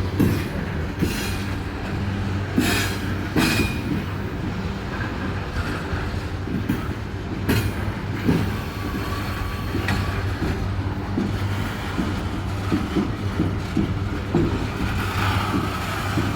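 Loaded coal hopper cars of a slow freight train rolling past, wheels clicking and knocking irregularly over the rail joints over a steady low rumble, with a faint wheel squeal now and then.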